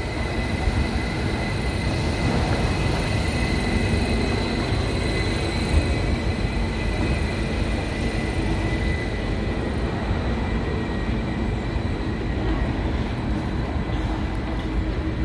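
Steady noise of a standing electric passenger train at a station platform: a low, even hum with a faint high whine that fades about ten seconds in.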